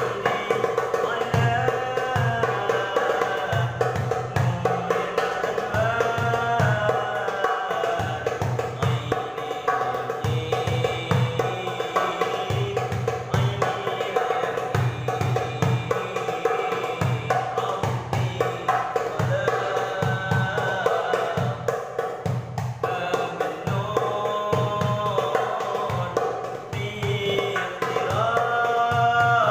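Darbuka beating a steady, quick rhythm under a sung Arabic sholawat (devotional song) melody.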